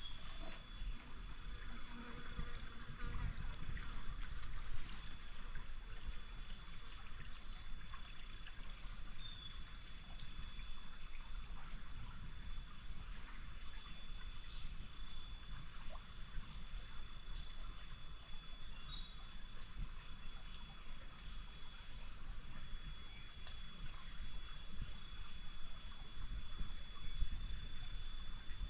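Insects trilling steadily in several high pitches at once, over a low rumble.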